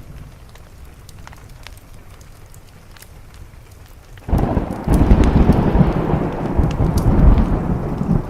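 Thunder: after about four seconds of quiet rain with faint small crackles, a sudden loud thunderclap breaks and rolls on as a long, deep rumble.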